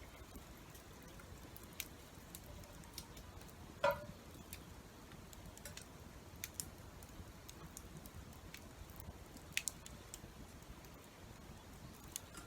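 Wood campfire crackling with sparse sharp pops, while rain patters and drips around it. One louder knock with a short ring about four seconds in.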